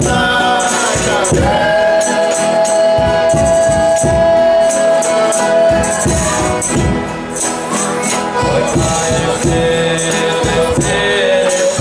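Folia de Reis singing: a group of voices holds one long note for about five seconds, then a second, lower long note. Tambourine beats keep a steady rhythm underneath.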